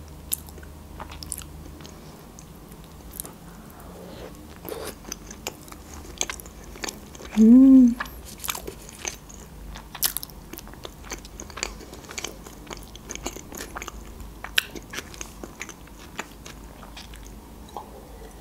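A person chewing and biting sushi rolls, with many small wet mouth clicks and smacks. About seven and a half seconds in comes a short hummed 'mm' that rises and falls.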